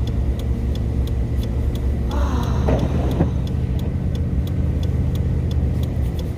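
The cab of a 1970 Chevrolet dump truck on the move: a steady low drone with a light ticking about three times a second. A brief higher scraping or squealing noise comes a little over two seconds in.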